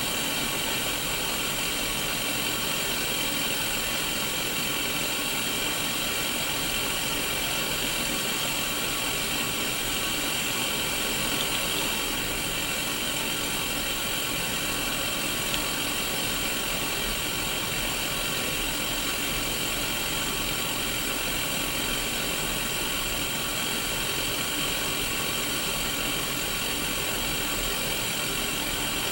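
Static from an untuned Sony Mega Watchman black-and-white mini CRT television: a steady white-noise hiss from its small speaker, strongest in the upper middle, with faint steady tones running through it.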